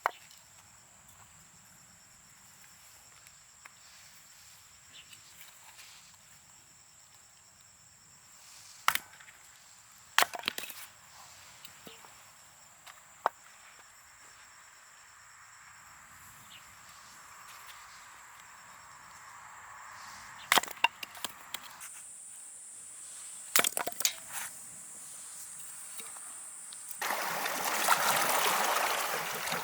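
A steady, high, thin insect trill with a scattered handful of sharp clicks and knocks. About three seconds before the end a louder rush of water sets in.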